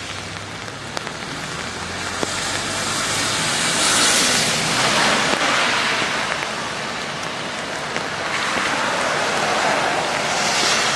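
Rain falling, a steady hiss that swells about four seconds in and again near the end.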